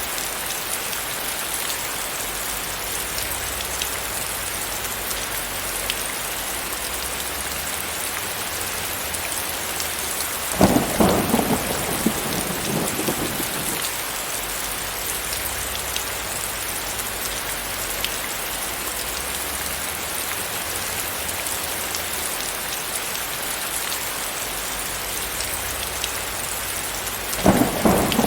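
Steady, even rain hiss. Two sudden claps of thunder break it, each rumbling on for a few seconds: one about ten seconds in, the other near the end.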